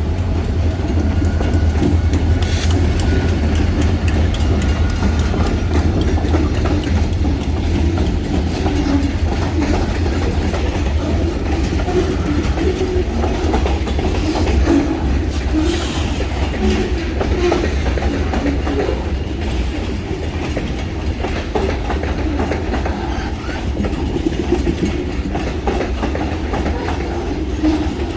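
Freight train rolling steadily past, with a low rumble and the wheels clacking over the rail joints.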